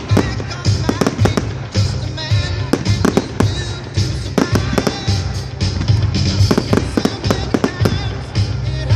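Fireworks display: a rapid, irregular barrage of bangs and crackling, with music playing underneath.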